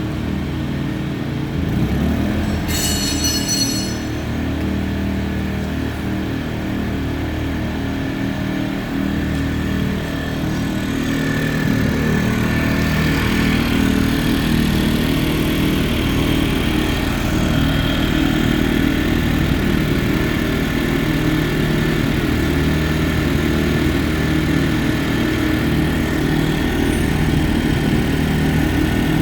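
Tsuzumi TIG 2000 IS inverter generator's small petrol engine running steadily, a little louder from a little over ten seconds in. A brief high ringing sound comes about three seconds in.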